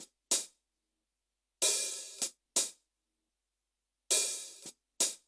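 Drum-kit hi-hat struck with a stick in a slow, spaced-out pattern: two strokes ring open for about half a second before the cymbals are closed, and the others are short and closed. It is shown as the wrong way, with the open and close not falling together with the strokes.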